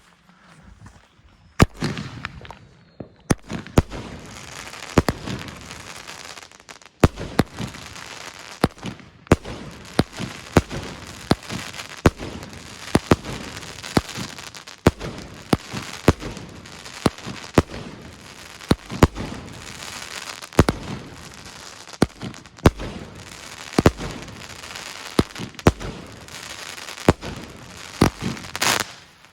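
Jorge JW65 19-shot fireworks cake with 30 mm shots firing one after another, a sharp bang about every half second to a second, starting about a second and a half in after a short quiet.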